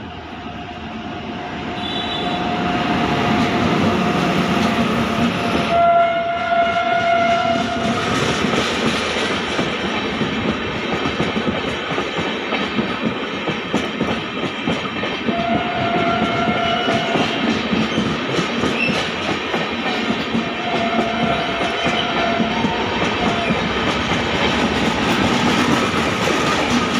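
Indian Railways WAP7 electric locomotive passing at speed with a rake of LHB coaches, sounding its two-tone horn several times, longest and loudest about six to eight seconds in. The wheel and rail noise of the passing train grows louder over the first few seconds and then runs steadily under the horn.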